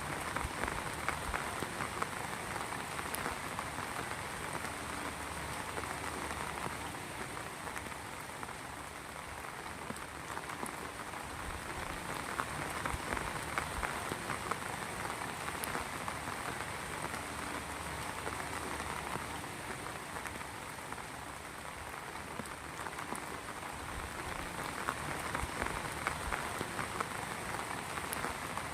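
Heavy rain falling steadily, a dense patter of drops hitting a surface, swelling and easing slightly in intensity.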